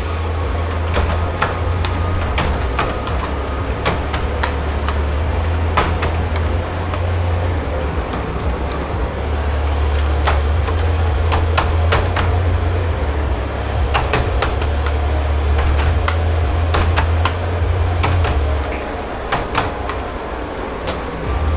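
Dishes, pans and utensils clattering and knocking as they are handled in a commercial kitchen dish pit, over a loud steady low machinery drone. The drone drops away for a few seconds near the end.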